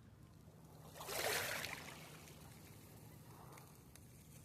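Shallow water washing once, a short rushing swash about a second in, over faint low background hum.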